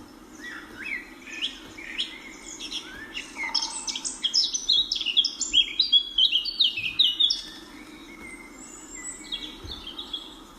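Birds calling and chirping: a rapid run of short, high notes that comes thickest and loudest in the middle, over a steady low hum.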